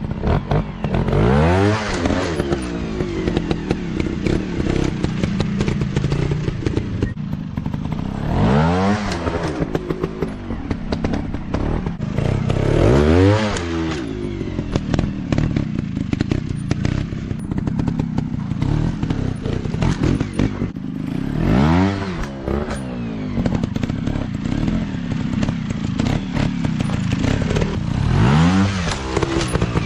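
Off-road motocross bike engines running, with about five hard revs that rise and fall in pitch, spread through the stretch, over the clatter of the bikes working rough ground.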